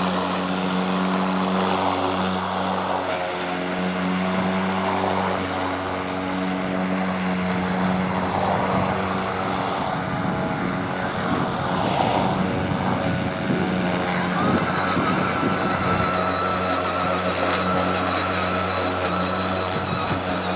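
EGO 56-volt battery electric lawn mower running under power, its motor and blade giving a steady hum. A rougher, uneven noise rises over the hum through the middle stretch as it cuts grass.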